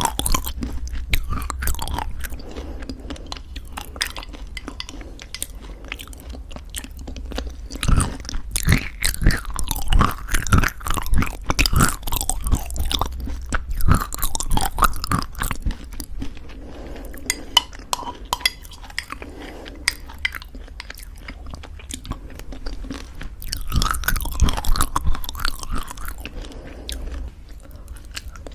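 Close-miked chewing of crunchy homemade granola in thick yogurt: irregular sharp crunches, louder and denser in two stretches about a third of the way in and near the end.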